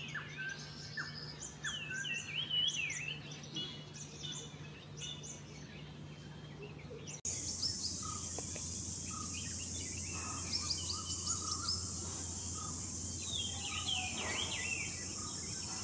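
Wild birds chirping and calling, with many short, quick notes. About seven seconds in, the sound switches to a steady high-pitched drone of insects, with scattered bird calls over it.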